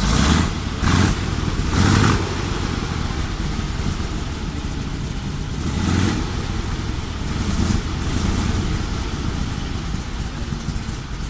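Sherman M4A4T tank's Continental R975 nine-cylinder radial engine running with a dense, steady rumble. There are brief louder surges at the start, about a second and two seconds in, and again around the middle.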